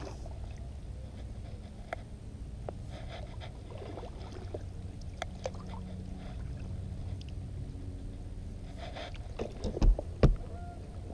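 Small water sounds and light knocks from an inflatable kayak being moved through shallow pond water, over a steady low rumble. Two loud, sharp knocks come near the end.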